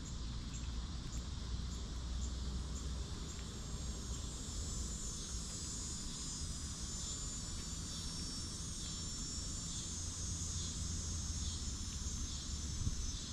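Insects chirping: short high pulses repeating about twice a second over a steady high buzz, with a low rumble underneath.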